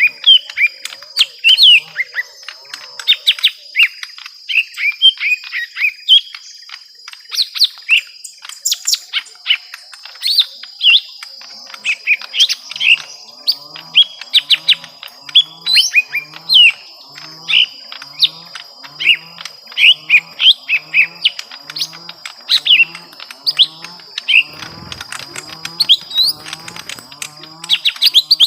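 Young lesser green leafbirds (cucak ijo mini) in a fighting exchange of rapid, sharp, high chirps and short calls. From about halfway through, a low-pitched call repeats about once a second underneath.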